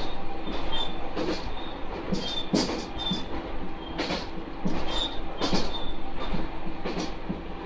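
Diesel railcar running at speed, heard from inside the car: a steady hum under the rumble of the wheels, irregular knocks as the wheels cross rail joints, and a few short high squeaks.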